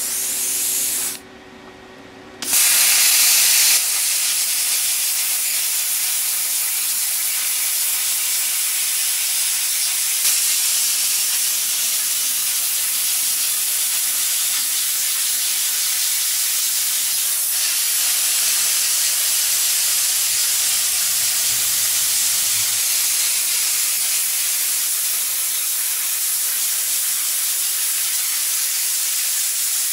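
Air plasma cutter running at 25 amps on 110 volts with compressed air at 35–40 psi, cutting 1/4-inch steel plate: a steady loud hiss. It drops out briefly about a second in, then comes back and holds steady.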